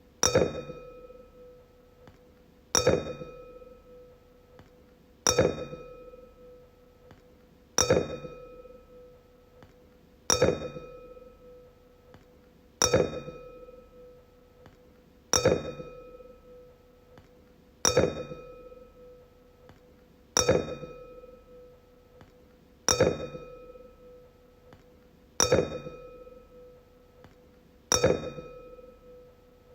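Wine glass struck and ringing, twelve evenly spaced taps about every two and a half seconds. Each tap gives a sharp clear ring with a few higher overtones that dies away before the next.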